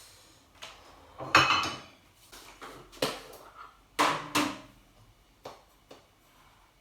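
Cutlery and dishes clinking and knocking, about seven separate sharp strikes, the loudest about a second and a half in.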